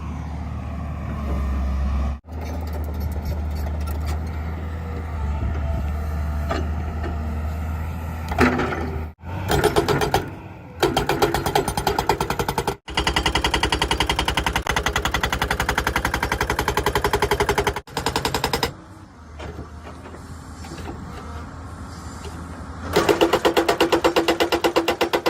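Excavator's diesel engine running steadily, then a hydraulic rock breaker hammering rapidly in long stretches, with abrupt cuts between the stretches.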